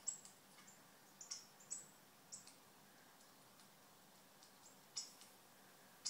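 Small birds chirping: short, high chirps, a cluster of them in the first two and a half seconds and another about five seconds in, over an otherwise quiet room.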